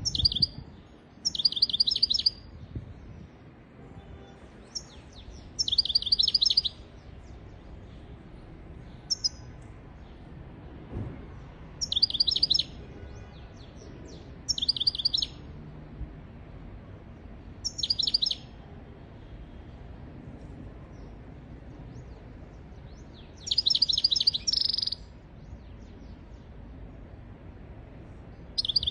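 European goldfinch singing: short bursts of rapid, high twittering, a phrase every few seconds with pauses between, over faint low background noise.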